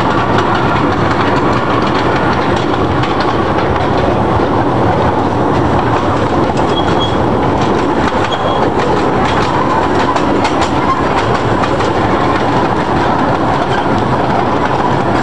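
Zoo train's open passenger cars running steadily along the track: a continuous rumble and rattle with wheels clacking over the rails. Two short high squeaks come about halfway through.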